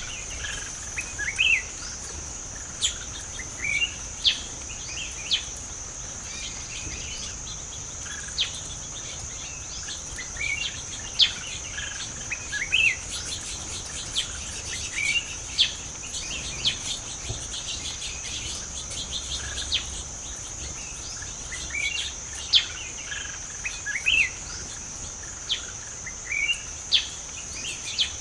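Forest ambience: a steady high-pitched insect drone with many short, quick-rising bird chirps over it, every second or two.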